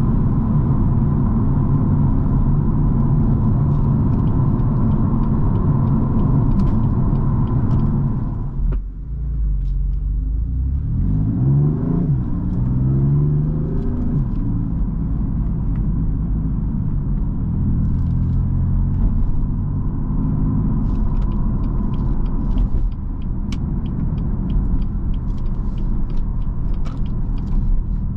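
BMW M4 Competition's 3.0-litre twin-turbo inline-six running with road rumble while driving. About nine seconds in the sound drops off briefly, then the engine rises in pitch twice as it accelerates through a gear change before settling back to a steady cruise.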